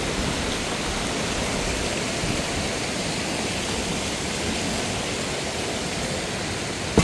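Mountain waterfall cascading over rocks: a steady, even rush of falling water. There is a single sharp click at the very end.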